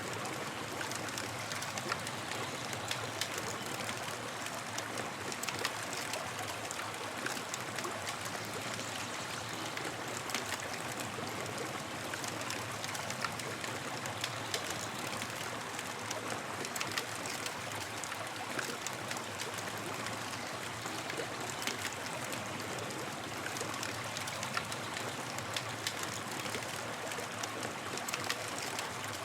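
Campfire burning: a steady hiss with frequent small sharp crackles and pops from the burning wood.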